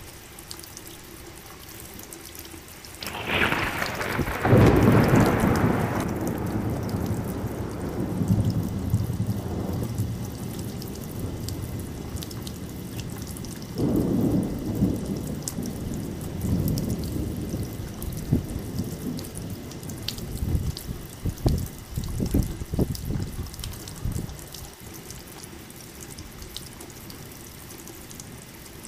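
Thunderstorm with steady rain: a loud clap of thunder about three seconds in rolls on for several seconds, a second roll follows about halfway through, and scattered rumbling cracks come later.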